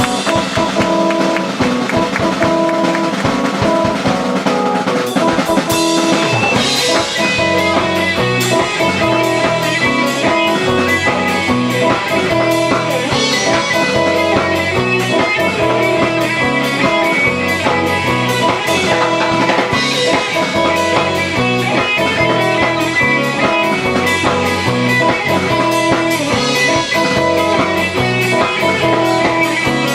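A live rock band playing with electric guitar and drum kit; the full drum beat kicks in about five seconds in.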